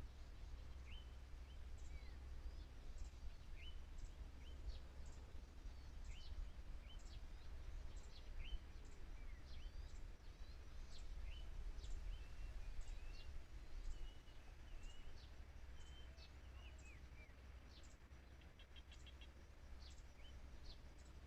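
Small birds calling outdoors: many short, high chirps and quick down-slurred notes, with a fast trill near the end. A low steady rumble runs underneath.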